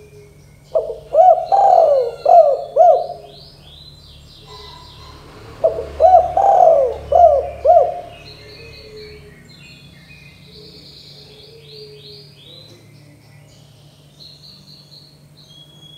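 Spotted dove (tekukur) cooing: two loud phrases of several rolling coo notes, about four seconds apart. Small birds chirp faintly and constantly in the background.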